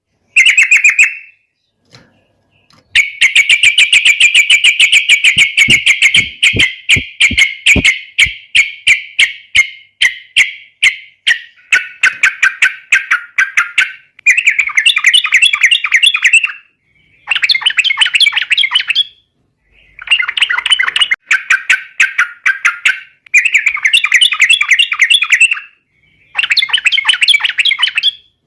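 Yellow-vented bulbul (trucukan) singing loudly in the fast, non-stop 'ropel' style prized by bird keepers. A long rapid chattering run starts about three seconds in and lasts several seconds, followed by repeated bubbly bursts of about two seconds each with short pauses between them.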